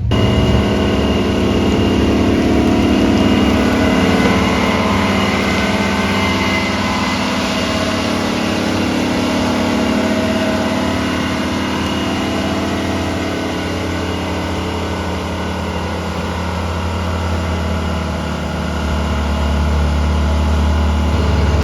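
Engines of cars running laps on a wet dirt track to pack the surface in, a steady engine drone with several pitches.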